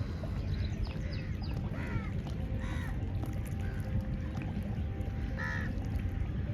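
Birds calling: a few quick chirps, then three louder arched calls, over a steady low rumble.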